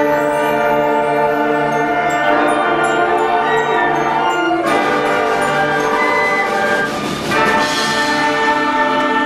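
School concert band playing held chords, with brass prominent; the chord changes about halfway through and again after a short dip.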